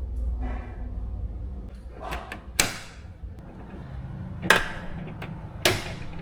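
Three sharp knocks spaced about two seconds apart, with a few lighter taps between them, over a low steady rumble.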